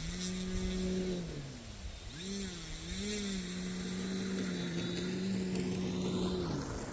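Electric motor and propeller of a 3DHS Extra 330 SC model airplane running at low throttle while taxiing. The pitch swells and dips a few times with throttle blips near the start, then holds steady before winding down and stopping near the end.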